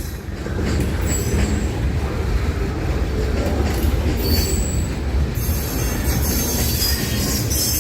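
Train rolling past with a steady low rumble, its wheels squealing in thin high tones that fade out for a few seconds in the middle and come back near the end.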